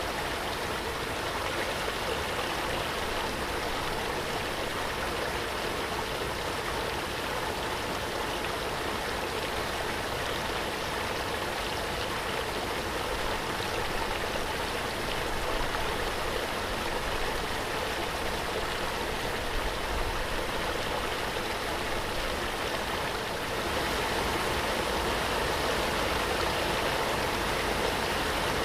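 Waterfall: water pouring and rushing in a steady, even wash, stepping up slightly in level near the end.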